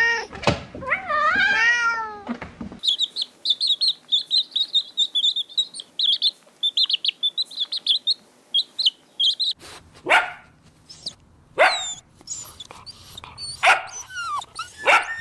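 A cat meowing twice, then a long run of rapid high chirping from birds, then several short sharp animal calls with sliding pitch.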